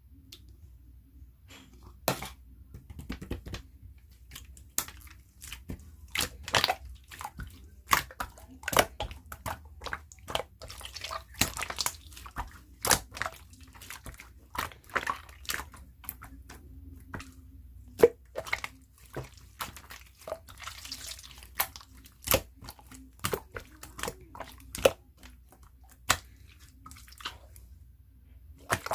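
Clear slime being squished and pressed by hand, giving irregular wet clicks and pops, several a second at times.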